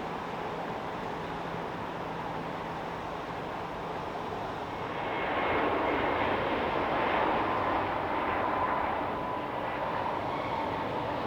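Jet airliner engines, a steady rumble with a thin whine, growing louder about five seconds in as the aircraft passes.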